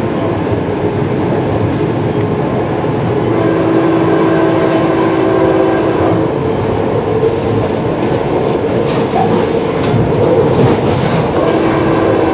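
Amtrak Piedmont passenger train running at speed: a steady rumble of wheels on rail, with a ringing tone that comes and goes.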